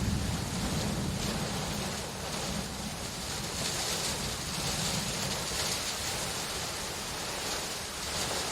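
Steady rain, an even hiss, with a low rumble underneath that fades out about two seconds in.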